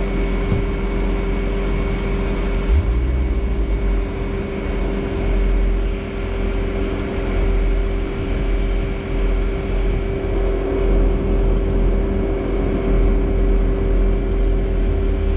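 Bobcat S650 skid steer's diesel engine running steadily, a low rumble with a constant hum over it, and a brief low thump about three seconds in.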